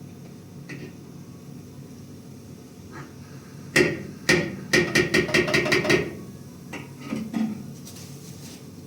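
Hammering: two separate blows, then a quick run of about eight ringing strikes at around six a second, followed by a few lighter knocks.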